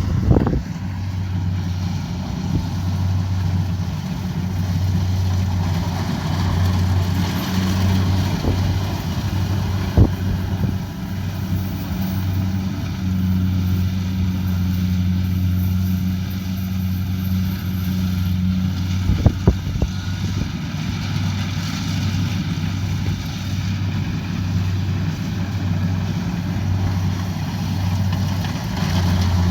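Kubota DC70 Pro combine harvester running steadily under load, its diesel engine giving a constant low hum. A few brief knocks about a third and two-thirds of the way through.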